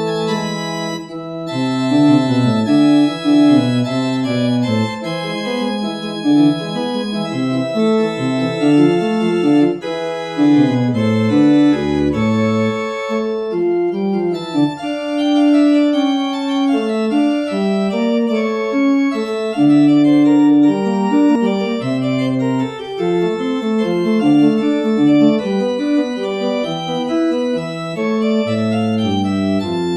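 Organ music playing as a postlude to close the service: several sustained notes held together over a moving bass line, the chords changing every second or so.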